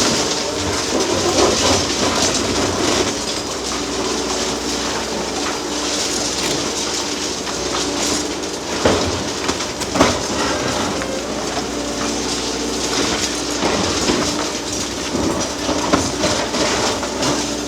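Hydraulic demolition excavator at work, its engine running steadily under a continuous grinding and clanking of concrete and steel, with two sharp knocks about nine and ten seconds in.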